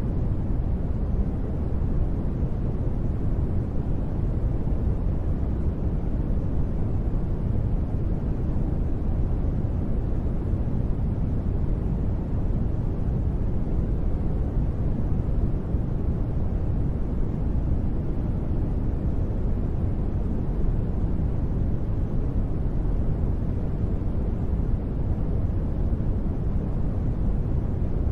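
Continuous sleep-aid noise sold as white noise: a deep, even rushing sound, heavy in the bass with little hiss, with no changes or sudden sounds.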